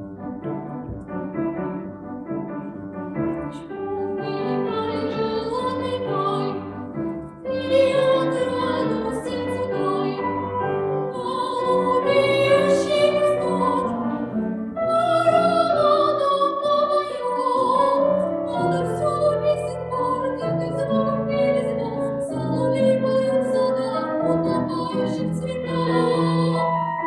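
A young girl singing in a trained, classical style with vibrato, accompanied by piano.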